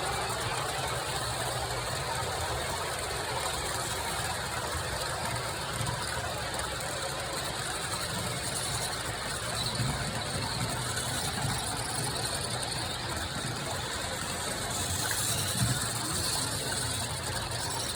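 HO scale model train running past: a steady mechanical rattle of wheels clicking over the track and gears turning, with light low knocks now and then.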